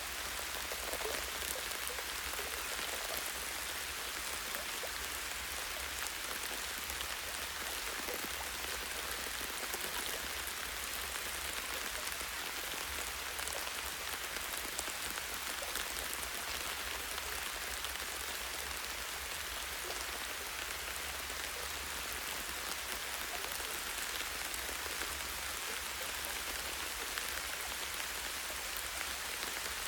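Light rain falling steadily on a tree branch and forest leaves, a dense patter of individual drops.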